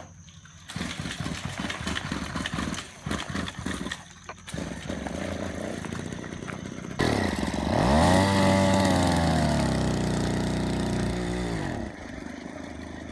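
Small motorbike engine sputtering and starting, then revving up sharply about seven seconds in. Its pitch rises and then slowly sinks before the sound stops suddenly near the end.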